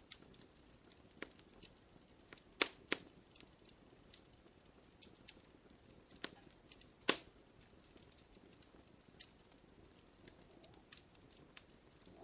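Wood fire crackling in a fireplace: irregular sharp pops and snaps over a faint steady hiss, with a few louder pops about two and a half seconds in and again around seven seconds.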